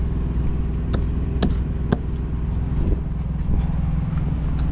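Kenworth W900 semi truck's diesel engine idling steadily, with a few sharp clicks and knocks of handling about 1, 1.5 and 2 seconds in.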